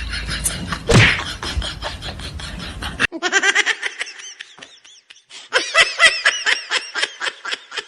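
Laughter in quick, repeated bursts. About three seconds in, the background rumble cuts off abruptly and the laughter goes on cleaner, breaking off briefly before resuming.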